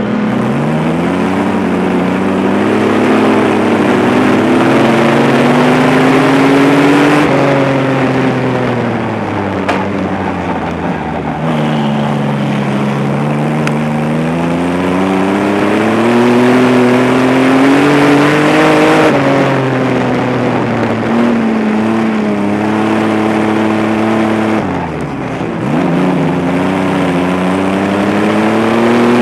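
Stockcar engine heard from inside the cockpit during a race, climbing in pitch under throttle down the straights and dropping back as it lifts off for the corners, about three times over.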